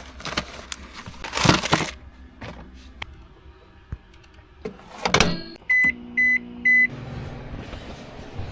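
Rustling and knocks of handling, then three short electronic beeps from a microwave oven's keypad about six seconds in. The steady hum of the microwave starts to run right after, heating a packaged chicken adobo meal.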